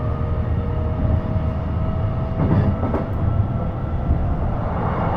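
Running sound inside a JR East E233 series electric train: a steady low rumble of wheels on rail with the whine of its traction motors. A couple of short clicks come about two and a half and three seconds in.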